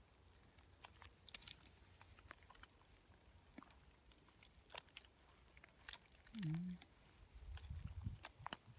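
Faint scattered crunches and snaps of oyster mushrooms frozen with ice being handled and picked. A short voiced sound comes about six and a half seconds in, and a low rumble near the end.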